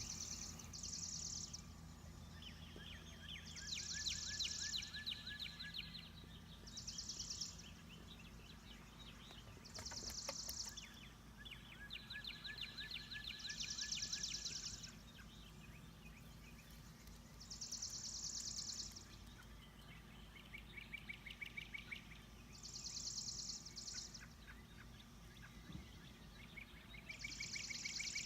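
Songbirds singing: a high, rapidly trilled phrase about a second long repeats every three to four seconds, with lower buzzy trills between the phrases. A steady low hum sits underneath.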